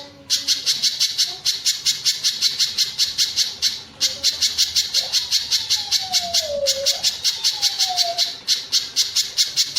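Pijantung gunung (streaked spiderhunter) calling: a fast, even run of sharp, high chip notes, about six a second, broken by brief pauses.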